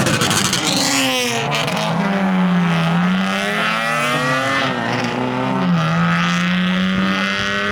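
Car engine revving as the car pulls away. The note falls and climbs several times, then holds fairly steady in the last couple of seconds.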